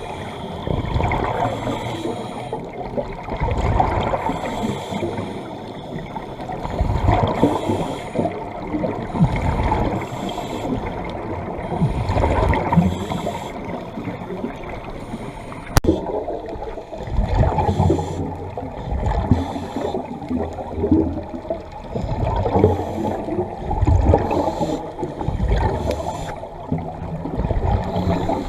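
Scuba diver's exhaled bubbles gurgling and bubbling through the regulator, heard underwater, in surges every few seconds.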